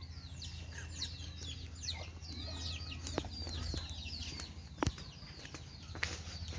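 Birds chirping: many short, quick falling notes overlapping one another, with a few sharp clicks about three, five and six seconds in.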